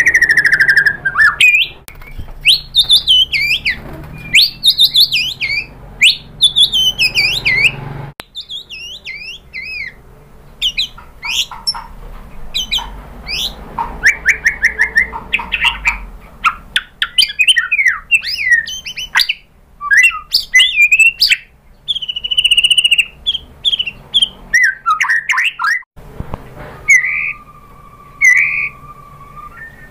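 White-rumped shama singing a rapid, varied song of loud clear whistles, swooping rising and falling notes and short chirps. The song breaks off abruptly about 8 seconds in and again near the end, where a long steady note is held.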